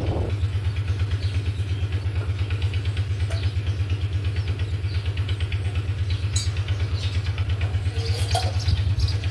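A nearby engine idling, a steady low rumble with a fast, even pulse.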